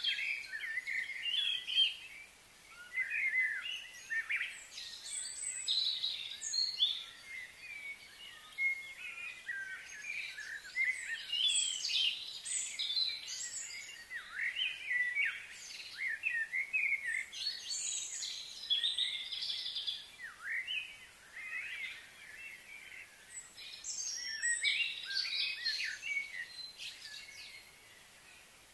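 Wild birds chirping and singing, many short overlapping calls coming in clusters every few seconds.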